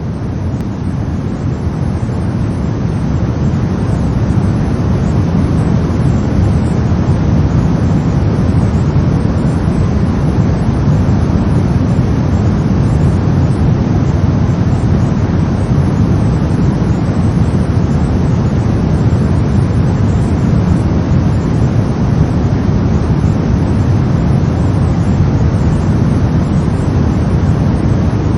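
Synthetic brown noise: a steady, deep rumbling hiss with most of its weight in the low end. It swells up over the first few seconds, then holds at an even level.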